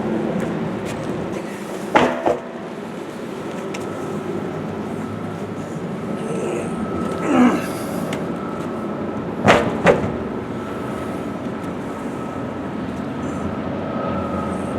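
Large truck tire being flipped, landing on the ground with a heavy impact and a quick second hit as it settles, twice: about two seconds in and again near ten seconds. A steady background hum runs underneath.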